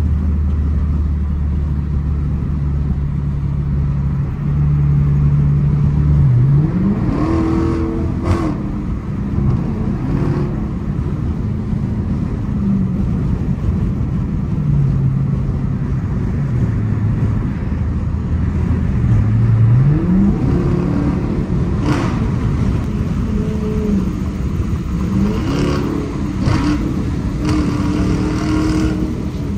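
Dodge Challenger R/T's 5.7-litre HEMI V8 heard from inside the cabin at highway speed, over steady road noise. The engine hums steadily, then its note climbs and steps around a few times as the car picks up speed in traffic. There are a few short knocks along the way.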